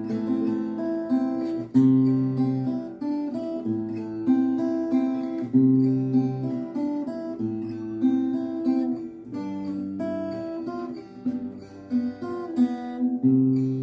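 Guitar playing a waltz accompaniment in C: a bass note followed by strummed chords, in a steady three-beat pattern.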